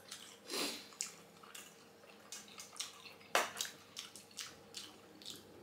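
Wet eating sounds of juicy chicken momo dumplings being chewed, with scattered sharp mouth clicks and smacks, the strongest about three and a half seconds in.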